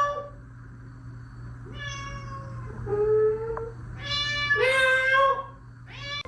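A cat meowing several times, about five drawn-out meows, over a low steady hum.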